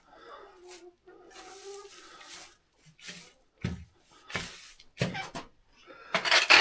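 Intermittent scraping and rustling with a few dull thumps, the loudest and longest stretch of scraping near the end.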